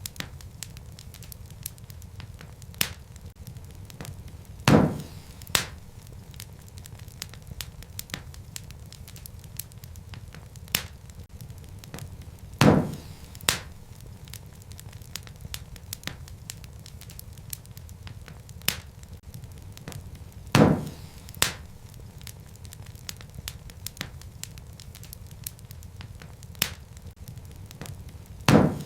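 Wood fire burning in a fireplace: a steady low rumble of flame with constant fine crackling of burning logs. A pair of louder pops, under a second apart, comes back about every eight seconds.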